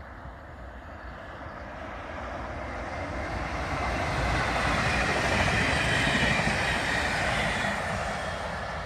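Double-deck regional electric multiple unit passing at speed, its wheels and running gear growing louder as it approaches, loudest about five to six seconds in, then fading as it goes by.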